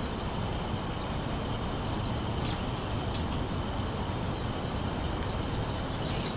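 Small birds giving short, high chirps every second or so over a steady low outdoor rumble.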